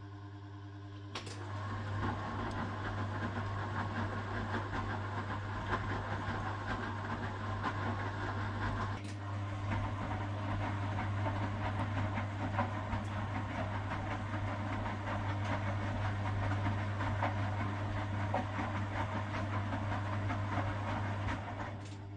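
1969 Zanker VA520 washing machine running, its Hanning gear motor humming steadily. About a second in, a click brings on a louder rattling, churning run of the drum, which stops near the end and leaves the hum.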